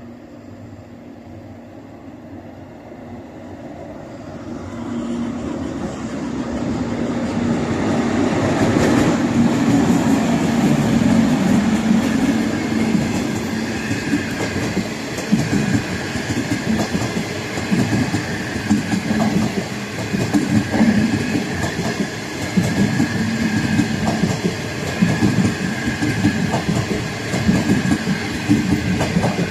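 A locomotive-hauled train of passenger coaches approaches and passes close by. Its rumble swells over the first ten seconds as the head of the train nears. Then the coaches roll past with a steady rumble and repeated clickety-clack from the wheels over rail joints, with a steady high hum above.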